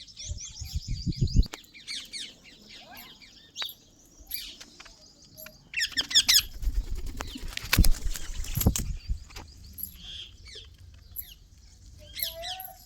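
Pet parrots calling in quick series of sharp, high chirps, with a loud burst of calls about six seconds in and another near the end. Low thumps of wing flapping come around the first second and again near eight seconds.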